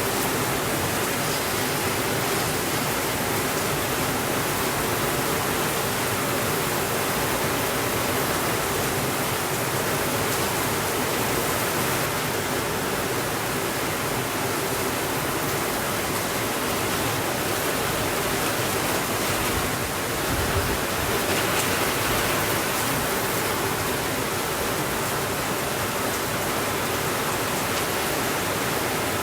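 Steady rainfall, an even rushing hiss with no distinct drops or thunder. It swells slightly about two-thirds of the way through.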